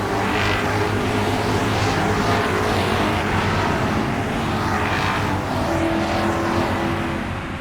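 Road traffic: cars passing one after another over a steady low engine hum.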